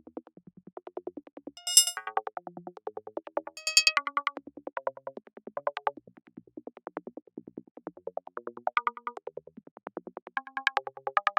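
VCV Rack software modular synthesizer patch playing a rapid stream of short pitched blips that hop about in pitch, the kind of squelchy sound effect used in forest psytrance. Two brief, bright high chirps stand out about two seconds in and again about four seconds in.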